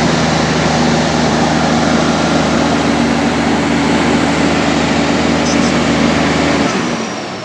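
A heavy engine running steadily, a deep hum under a broad rushing noise, that drops away near the end.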